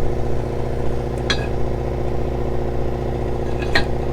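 An engine running steadily at idle, a constant low hum. Two sharp, ringing clinks, about a second in and again near the end.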